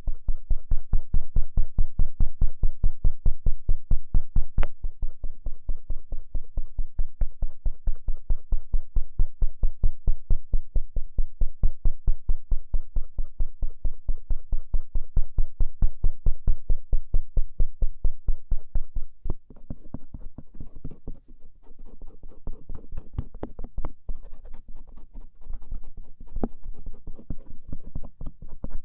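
A bamboo ear pick scratching over the outer ear (auricle) in quick, steady strokes, about four a second. About two-thirds of the way through the strokes turn quieter and lighter.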